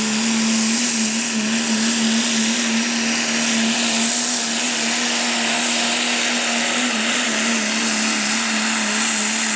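Diesel pickup truck's engine held at full throttle during a sled pull, one steady high note that wavers only slightly, with a wide rushing noise over it.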